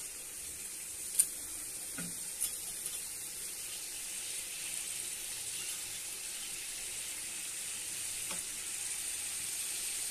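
Nalleru (veldt grape) stems sizzling steadily as they fry in hot oil in a pan, the sizzle growing slightly louder. A few sharp clicks against the pan, the loudest about a second in.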